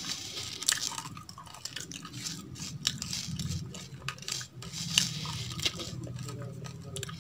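Chewing of crunchy dried raw rice grains, a run of small sharp crunches and clicks, mixed with fingers picking grains from a plastic bowl.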